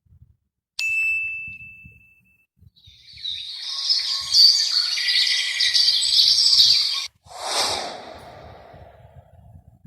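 A single bright ding that rings out and fades, followed by a few seconds of busy, high-pitched bird chirping. After a sudden cut, a short burst of noise starts and fades away.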